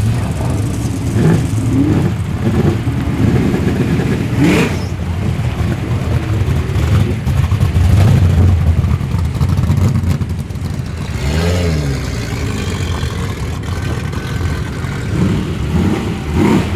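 Modified muscle car engines running steadily, with a rev about four and a half seconds in and another around eleven seconds in.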